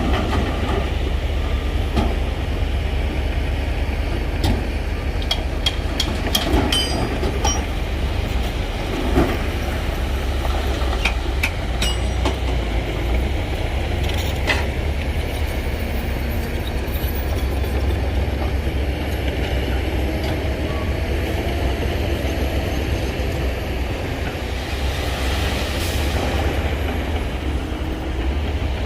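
Heavy diesel earthmoving machinery running with a steady low rumble, with scattered sharp knocks and a hiss of about a second near the end.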